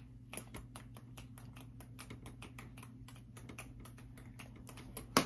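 A quick, even run of faint light clicks, about four or five a second, like typing, over a low steady hum.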